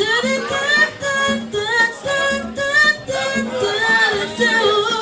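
A woman's wordless, melismatic vocal runs over a backing track, with a pulsing low note underneath.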